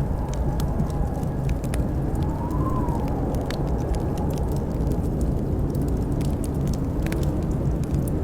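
Fireplace crackling with scattered sharp pops over a steady rumble of blizzard wind. About two to three seconds in, the wind rises and falls in a faint howl.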